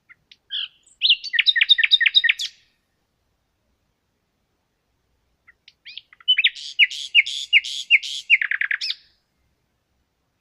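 A songbird singing two phrases about three seconds apart, each a quick run of repeated down-slurred whistled notes ending in a faster flourish.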